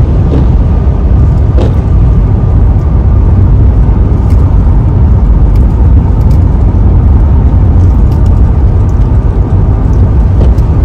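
A car driving along the road, heard from inside the cabin: a steady, loud, low rumble of road and engine noise, with a few faint ticks.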